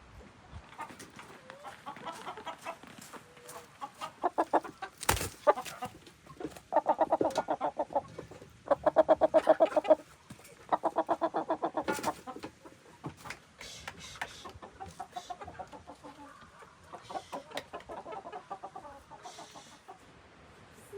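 Domestic hens clucking, in several runs of rapid, evenly spaced clucks, loudest in the middle of the stretch, with scattered softer calls and clicks around them.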